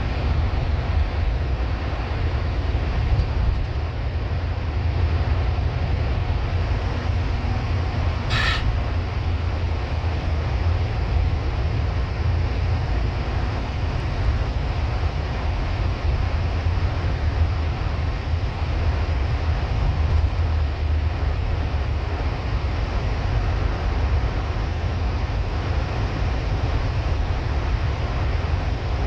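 Steady low rumble of a bus's engine and road noise, heard from inside the moving bus, with one brief sharp click about eight seconds in.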